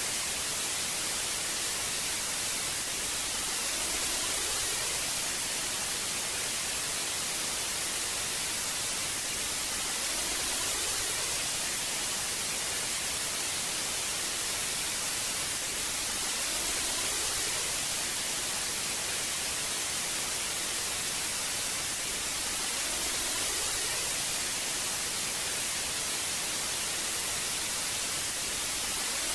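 Old television static: a steady, even hiss, brightest in the treble, with faint slow swells about every six seconds.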